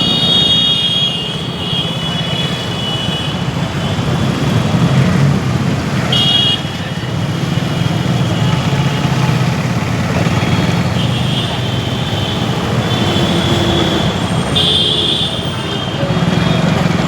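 Riding a motorcycle through busy city traffic: a steady engine and road rumble, with vehicle horns honking several times, mostly in the second half.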